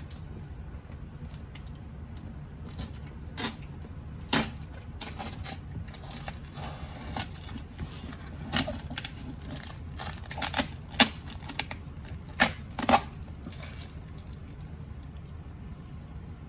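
Irregular clicks, taps and knocks of things being handled, loudest about 11 and 13 seconds in, over a steady low hum.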